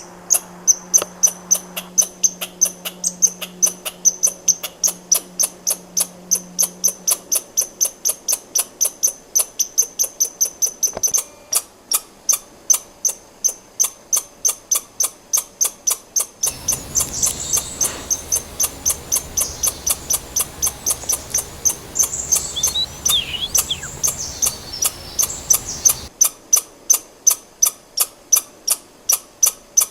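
Squirrel calling in a long, steady series of short, sharp, high-pitched calls, about three a second. For about ten seconds in the middle a rushing background noise runs beneath the calls.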